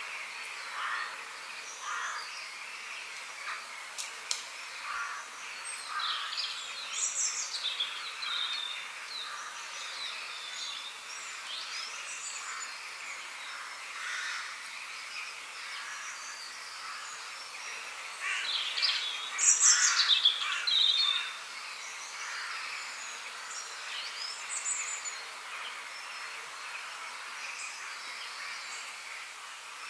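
Several songbirds singing and chirping over a steady background hiss. The song is loudest and busiest about two-thirds of the way through.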